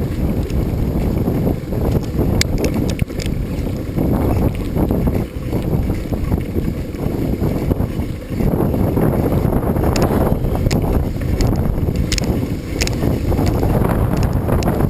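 Wind buffeting the microphone while riding a bicycle, a steady low rumble, with scattered sharp clicks and rattles, most of them in the second half.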